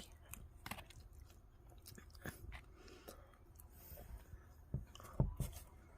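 Someone chewing food close to the microphone, with small wet clicks and crackles. A couple of soft knocks come about five seconds in.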